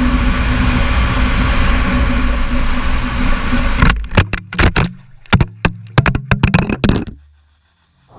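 Honda CBR650F's inline-four engine running under steady, loud wind noise. About four seconds in, it gives way to a quick string of sharp knocks and clatters over some three seconds, with a low hum between them, then stops.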